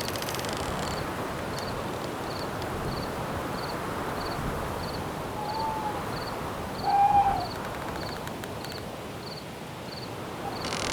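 Night forest ambience: a cricket chirping steadily about twice a second over a steady hiss of wind, with an owl hooting twice, a short faint call about halfway through and a louder one a second and a half later.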